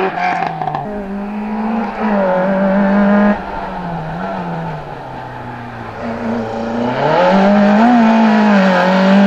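Race car's engine revving up and down as it weaves through a cone slalom, its pitch rising and falling again and again as the driver accelerates and lifts off. The engine grows louder about two-thirds of the way through as the car comes closer.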